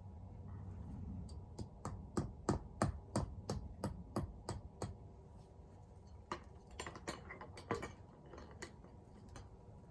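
A run of sharp knocks or taps, about three a second for a few seconds, then a few scattered ones.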